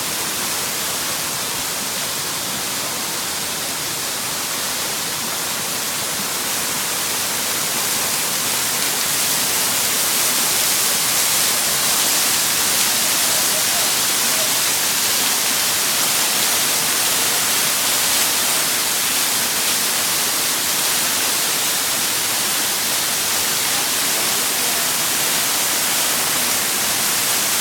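Waterfall: a steady rush of falling water, growing slightly louder about a third of the way through.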